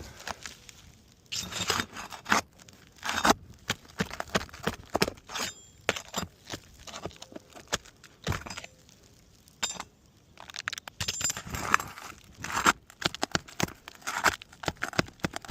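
Metal pry tool working under asphalt roof shingles to pull roofing nails: irregular clinks, taps and scrapes, with a quieter stretch around the middle.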